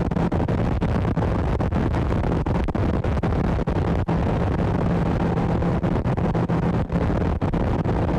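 Boat motor running steadily at cruising speed: a constant hum under a rush of wind and water noise, with brief dips in level now and then.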